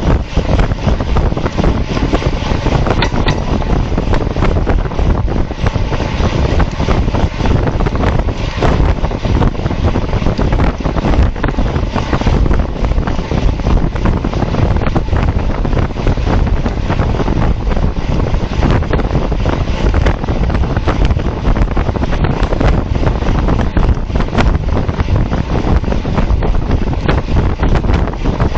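Wind rushing over a bike-mounted camera's microphone at racing speed, a steady, loud, buffeting roar.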